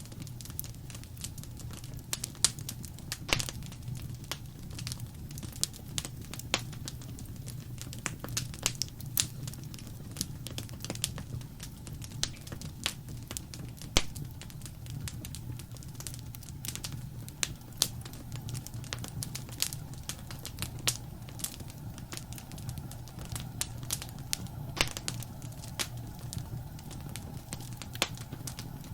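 Wood fire crackling in a fireplace: irregular sharp pops and snaps over a steady low rumble of flame, with a few louder pops scattered through.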